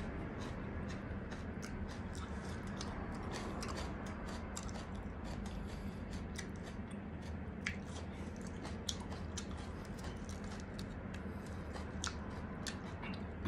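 Close-miked chewing of breadcrumbed fried chicken, with many small sharp clicks and wet mouth sounds scattered throughout, over a steady low hum.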